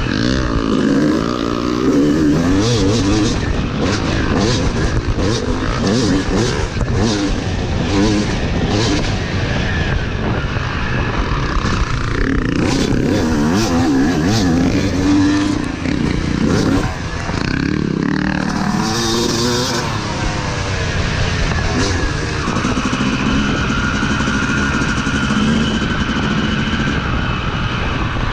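Motocross dirt bike engine revving up and down, rising and falling in pitch, as the bike is ridden around the track. Clicks and clatter are mixed in through the first several seconds.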